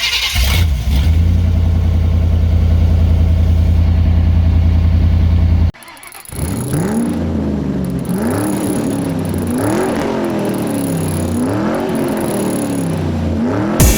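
1988 Chevy C1500 pickup's engine running steadily at a fast idle. After an abrupt cut about six seconds in, it is revved again and again, the pitch rising and falling about every second and a half.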